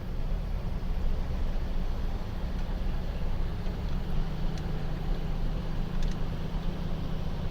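Car running along a road, heard from inside: a steady low engine and road rumble, with a low hum growing clearer about halfway through.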